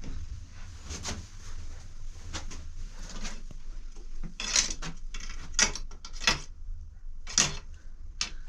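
A series of sharp clinks and knocks of hard objects striking together, a few scraping, with the loudest strikes in the second half.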